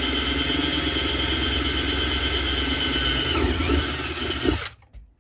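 Electric drill boring a hole through thick material, a steady whine under load. About three and a half seconds in its pitch falls as the cut finishes, and it stops sharply shortly before the end.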